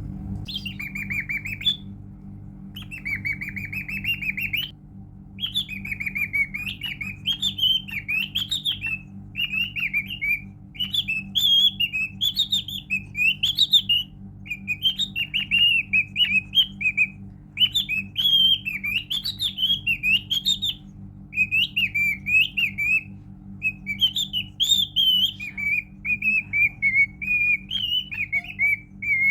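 Pet cockatiel singing: a long run of warbling, whistled phrases that waver up and down, with short breaks between them, over a steady low hum.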